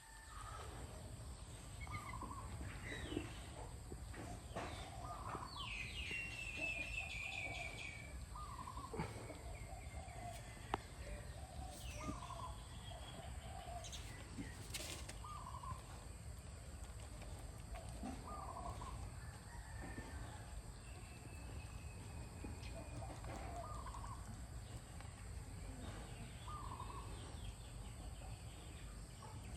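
Birds calling: short calls repeating every second or two, with a run of higher chirps about six seconds in, over a steady low background hum.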